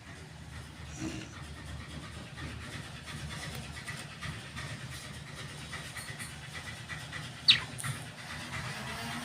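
A parrot gives one short, shrill squawk about three-quarters of the way through, over a steady low background rumble.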